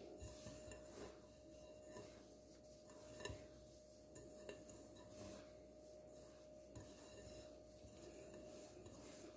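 Faint rubbing and sandy rasping of semolina, moistened with honey, butter and oil, being worked by hand in a bowl, with occasional small ticks.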